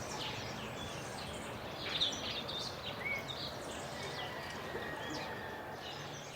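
Birds chirping here and there over a steady background hiss of outdoor ambience.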